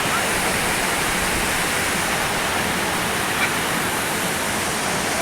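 Waterfall water rushing and splashing in a steady, even wash of noise, with one brief faint click a little past the middle.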